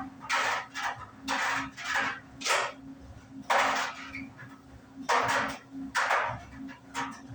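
Euhomy compact clothes dryer running: a steady low motor hum under irregular clattering knocks, roughly one a second, as the load tumbles in the turning drum.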